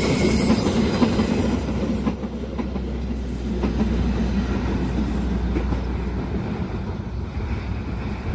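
Train passing at speed, wheels clacking over the rail joints over a steady low rumble. It gets quieter after about two seconds and eases off further near the end as the train goes by.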